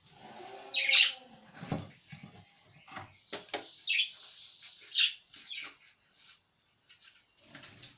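Pet budgerigars chirping and twittering in short, scattered calls, with a dull knock a little under two seconds in.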